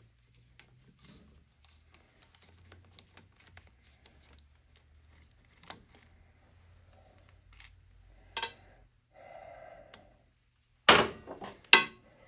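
Hand work on a motorcycle engine's side cover: faint scrapes and ticks of parts and tools, a few sharp clicks, then two loud metallic knocks near the end as the plate is worked loose.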